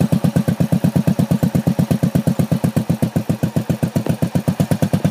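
Motorcycle engine running steadily just after being restarted with the starter, with an even beat of about nine pulses a second.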